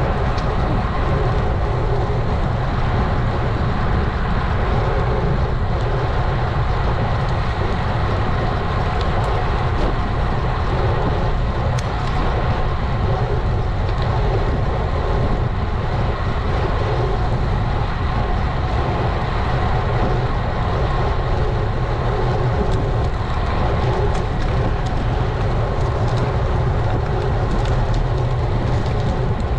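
Steady wind rumble and tyre-on-road noise from riding a road bike, heard through the bike-mounted GoPro Hero 11's microphone.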